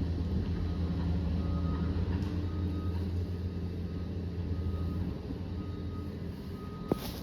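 Liebherr PR 744 crawler dozer's diesel engine running in a steady low drone that eases off after about five seconds, with a single sharp click near the end.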